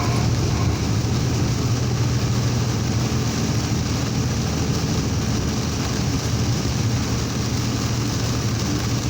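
Steady noise inside a vehicle driving through heavy rain and strong wind: a continuous low engine and road hum under an even hiss of rain and wind.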